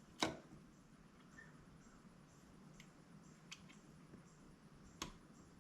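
Two sharp taps, one about a quarter second in and one near the end, with a few faint clicks between: a hammer striking a socket to drive a new seal into a hydraulic cylinder. The seal is going in crooked and bending rather than seating squarely.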